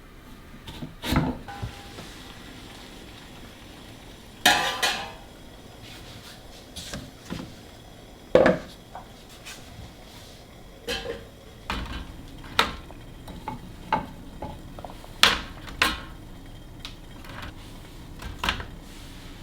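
Kitchen handling sounds: dishes, containers and utensils being picked up and set down, a dozen or so separate clinks and knocks, some ringing briefly, the loudest about four and a half and eight and a half seconds in.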